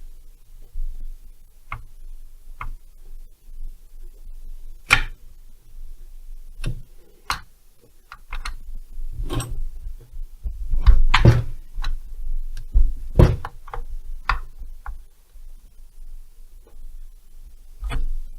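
Scattered clicks and knocks of metal parts and tools being handled on a workbench during a chainsaw engine strip-down. The knocks come irregularly, with a denser, louder run about eleven to thirteen seconds in.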